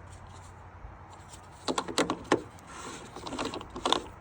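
A pickup truck's fuel cap being fitted and twisted onto a tractor's fuel filler neck: a few sharp clicks and knocks about two seconds in, then scraping with more clicks near the end.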